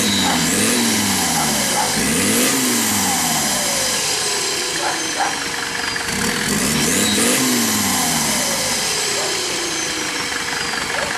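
The turbocharged 3-litre engine of a GAZ-69 off-roader revving up and falling back three times. A high whine climbs with each rise and then slowly dies away.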